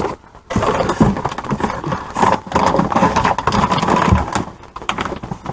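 Handling noise of items being sorted and set into a box: irregular rustling with many quick knocks and clunks, starting about half a second in and dying down near the end.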